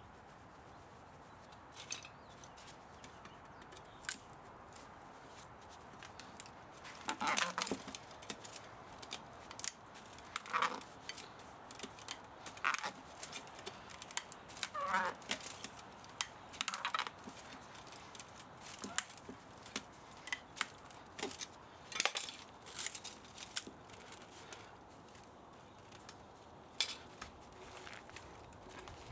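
Hand tools working on a scrap electric motor: irregular sharp metal clicks and snips, with several short squeaks that fall in pitch, most of them in the middle.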